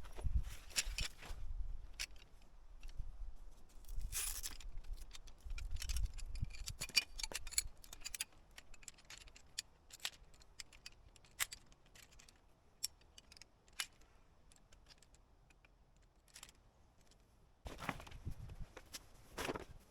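Scattered light clicks and brief rustles, as of small gear being handled, with low rumbling in the first few seconds and again near the end.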